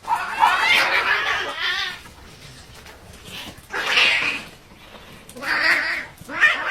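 Cats yowling in a fight, in four loud wavering bursts: one long cry at the start, then three shorter ones.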